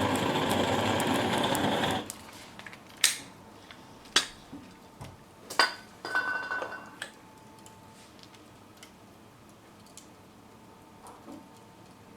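Handheld gas torch burner running with a loud, steady hiss that cuts off suddenly about two seconds in. It is followed by several sharp knocks and clinks of handling, one with a brief metallic ring.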